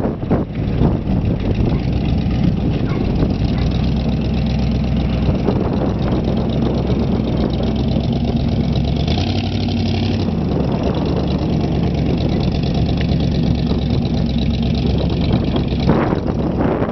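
1977 Chevrolet Corvette's V8 engine running steadily at low revs, with a brief change in pitch about halfway through.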